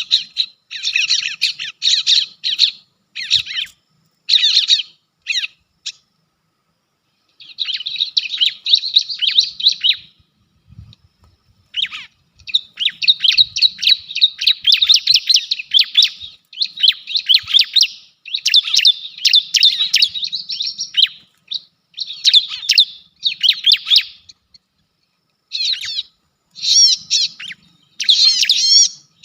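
Bar-winged prinias (ciblek) calling: rapid, high chattering chirps in repeated bursts, broken by short pauses about six and ten seconds in.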